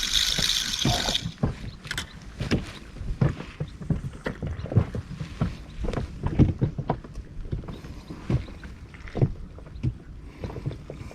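Water slapping and knocking irregularly against the hull of a small inflatable boat; a louder rushing hiss of water stops about a second in.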